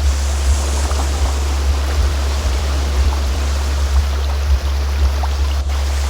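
A steady low-pitched tone, a sound-therapy 'healing frequency', holds constant over the even rushing of a flowing stream with small scattered splashes.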